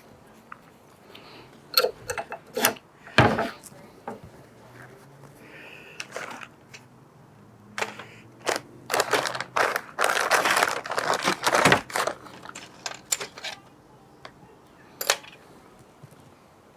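Metal fork parts and tools being handled on a workbench: scattered clicks and knocks, with a denser stretch of rubbing and scraping from about nine to twelve seconds in.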